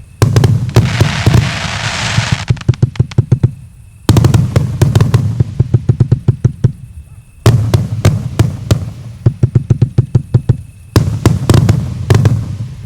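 A 220-shot firework cake of mixed 1-inch, 1.2-inch and 1.5-inch calibre firing rapid volleys of launch thumps, several a second, starting afresh in loud bursts about every three to four seconds. A dense crackling hiss fills the first couple of seconds.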